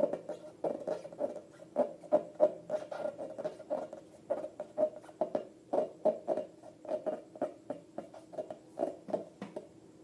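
Rubber balloons squeaking as hands rub and squeeze them: quick, irregular squeaks, a few a second, stopping just before the end.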